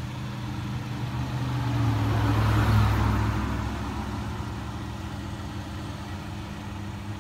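A motor vehicle's engine running with a steady low hum, swelling louder about two to three seconds in and easing off again.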